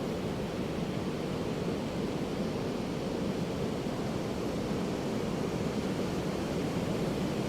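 Ocean surf on a beach: a steady, even rush of waves with no single breaker standing out.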